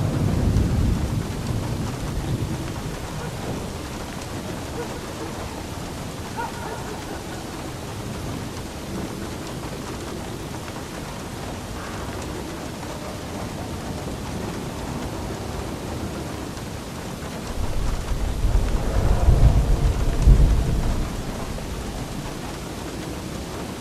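Steady rain falling, with thunder rumbling: one roll fading over the first couple of seconds and a louder deep rumble from about two-thirds of the way in, dying away near the end.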